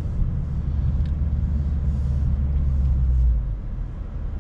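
Lexus IS 500's naturally aspirated 5-litre V8 heard from inside the cabin while driving, a low steady drone with road noise, partly engine sound piped in through the cabin speakers. The drone drops away about three-quarters of the way through as the car eases off.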